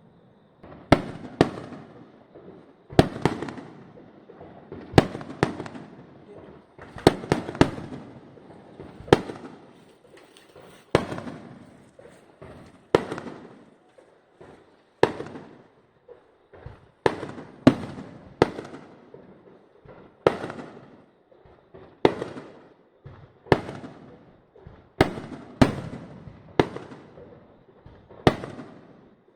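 Aerial fireworks shells bursting one after another, about twenty sharp bangs, roughly one every second or two and sometimes in quick pairs. Each bang is followed by a rumbling echo that dies away.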